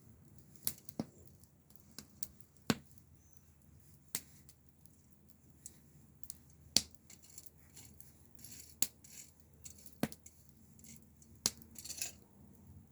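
Wood fire crackling, with sharp, irregular pops about once a second and a few short flurries of crackle.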